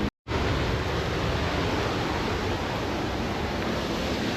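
Whitewater of a river waterfall rushing in a steady, even noise, with a brief total dropout just after the start.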